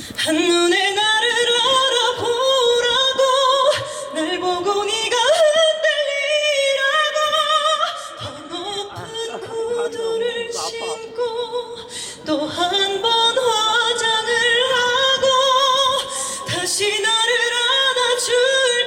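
A woman singing a cappella into a microphone through a PA, with no accompaniment. She sings long held notes with vibrato in phrases of a few seconds, with short breaths between them.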